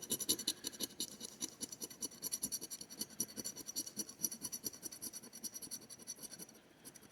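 Rapid, irregular scraping strokes as the coating is scratched off a Blizzard Bucks scratch-off lottery ticket, stopping about six and a half seconds in.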